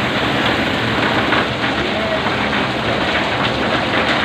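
Heavy rain pouring down: a steady, dense hiss of rainfall.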